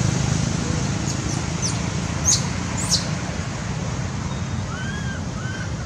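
Steady low traffic-like rumble, with a few sharp high chirps about two seconds in and a run of short, arched squeaky animal calls near the end.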